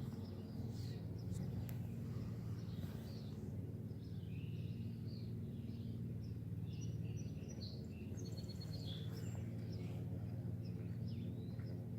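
Birds chirping and singing, with a quick trill about eight seconds in, over a steady low hum.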